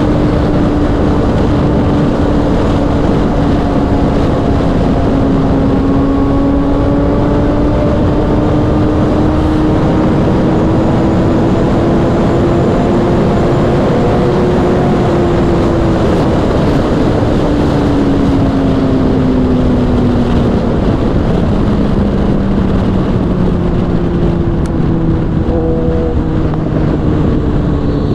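Kawasaki sportbike's inline-four engine holding high revs at highway speed under heavy wind rush. Its pitch wavers, then falls slowly over the last dozen seconds or so as the bike eases off.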